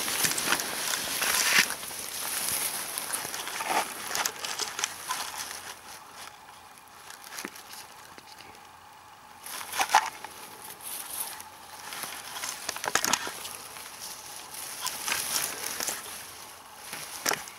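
Rustling and crackling of grass and meadow plants being pushed through and handled while picking wild strawberries, with scattered sharp clicks and snaps. It dies down for a few seconds in the middle, then picks up again.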